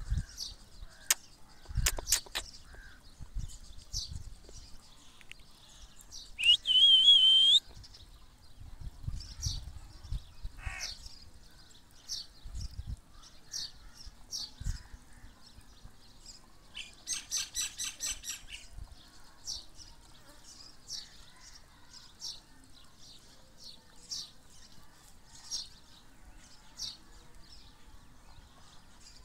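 Small birds chirping in short, high notes again and again, with a louder wavering high call lasting about a second around seven seconds in and a rapid run of harsh notes a little past halfway.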